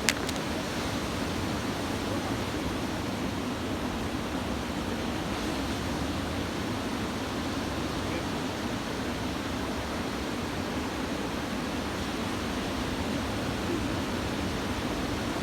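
Steady rushing noise of surf breaking on a beach under typhoon swell, with one brief click right at the start.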